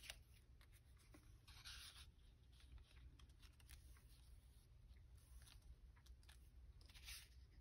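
Near silence, with two faint soft strokes of scissors cutting through paper, one about two seconds in and one near the end.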